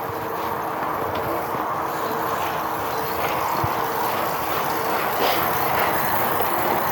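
Wind and tyre noise while riding an e-bike, with a steady low hum running underneath and a few faint ticks.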